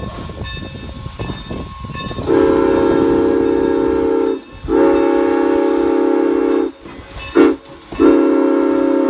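Southern Pacific six-chime steam whistle blowing a chord: after about two seconds of hiss, two long blasts, a short toot, then a long blast that is still sounding at the end.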